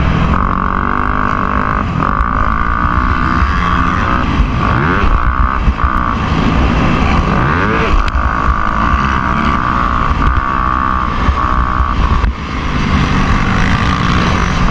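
Motocross bike engine running loud and continuous, its pitch rising and falling as the rider works the throttle, with clear revs about four and eight seconds in.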